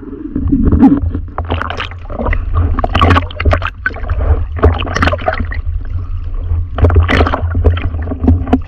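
Sea water splashing and gurgling against a diving camera, in irregular bursts over a steady low rumble.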